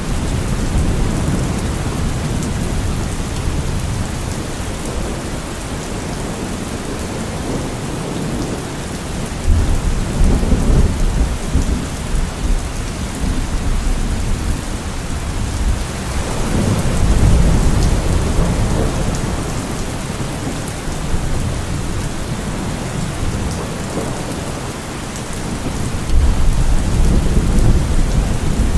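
Steady rain with rolling thunder. Low rumbles swell about ten seconds in, again around seventeen seconds, and once more near the end.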